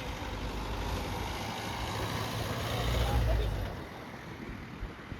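Jet airliner's engines rushing past, swelling to a peak about three seconds in and then fading, with a deep low rumble under the roar.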